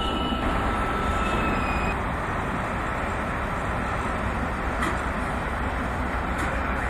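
Train rolling through station trackwork: a steady rumble of wheels on rail, with the thin tone of a wheel squeal fading out in the first half-second.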